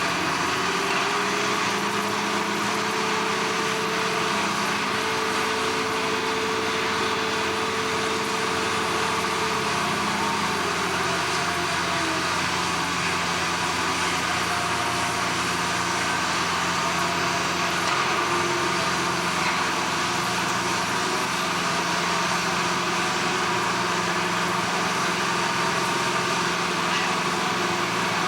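Steady, continuous drone of heavy machinery running, with several held tones over a broad noise; one higher tone drops out about a third of the way through.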